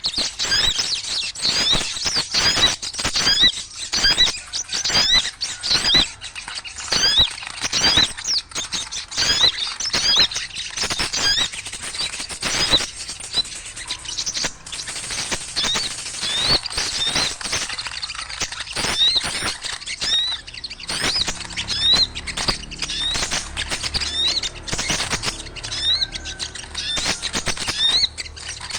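A crowd of small birds chattering noisily, with many short, quick chirps overlapping and crowding one another, and sharp clicks among them.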